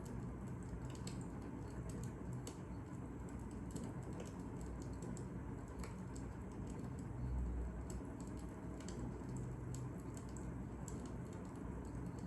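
Fire crackling: irregular sharp snaps and pops over a steady low rumble, with a soft low thump about seven seconds in.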